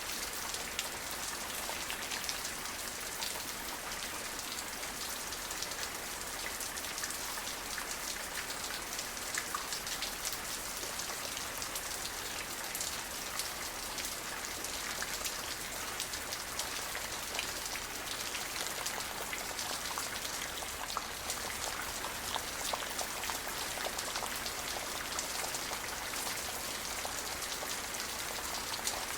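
Steady rain falling, a dense patter of individual drops hitting a surface, with no thunder.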